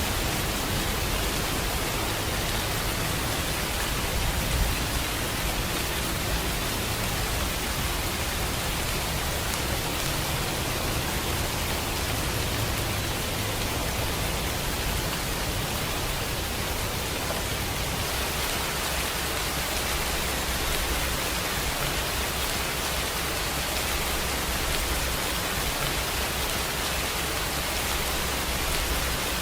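Steady rainfall, an even hiss of rain with no breaks or distinct drops standing out.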